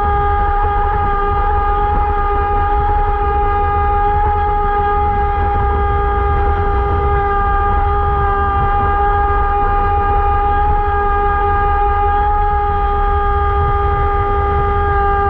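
A small motor whining at one steady, unchanging pitch, over a low rumble.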